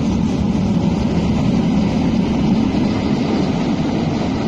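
A Tyne and Wear Metrocar electric train of two coupled cars moves past close by and pulls away, with a steady, loud rumble of wheels and motors.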